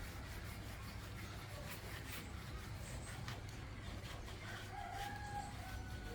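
A rooster crowing faintly, one drawn-out call near the end, over a steady low hum and a few light clicks.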